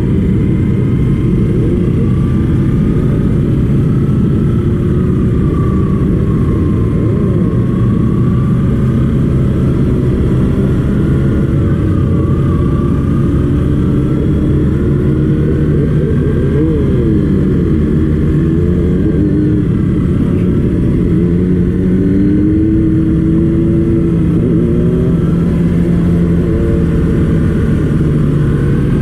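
Motorcycle engine running on the move, loud and continuous, its pitch rising and falling with changes in speed.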